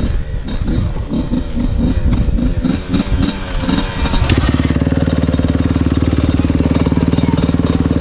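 Dirt bike engine running unevenly with a wavering note, then from about four seconds in settling into a steady idle.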